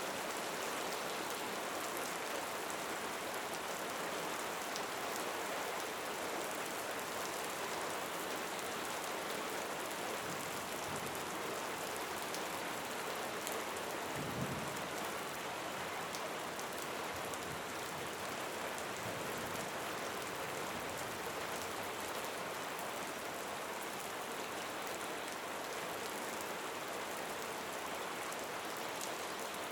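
Steady rain falling, an even hiss with faint scattered drop ticks, and a brief low thud about halfway through.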